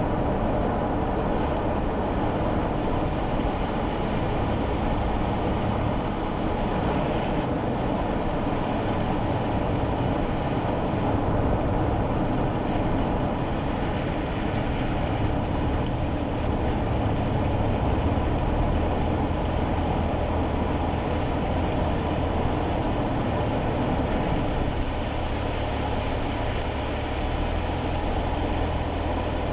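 Road noise inside a moving kei car's cabin on a wet road: steady tyre noise with a low engine drone that shifts in pitch a few times.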